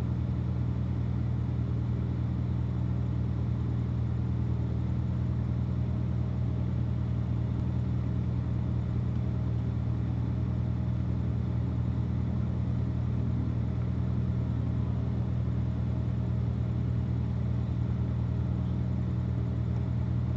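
2016 Corvette Z06's supercharged 6.2-litre LT4 V8 idling steadily, a low, even rumble with no revving.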